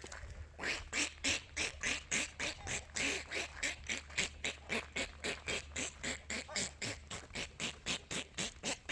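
Farm fowl calling in a fast, steady series of short calls, about three or four a second, starting just under a second in.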